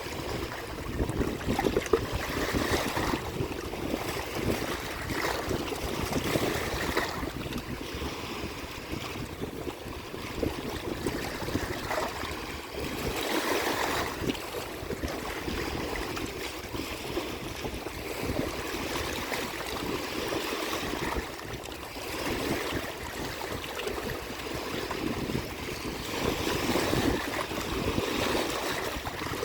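Waves washing against the shore in surges every few seconds, with wind buffeting the microphone.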